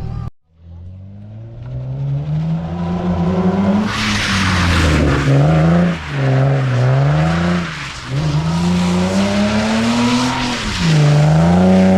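Car being drifted on a wet road: the engine revs hard, its pitch rising and dropping several times, and from about four seconds in the spinning rear tyres hiss across the wet surface.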